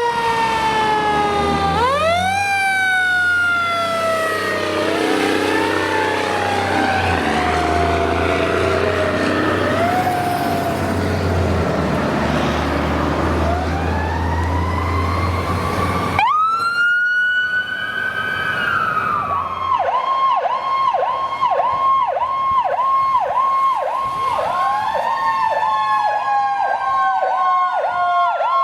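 Several electronic sirens sounding at once, each sweeping up sharply and falling away slowly, over a low hum. About 16 seconds in the sound changes abruptly, and then a fast warbling siren of about two cycles a second runs beside a slower rising and falling one.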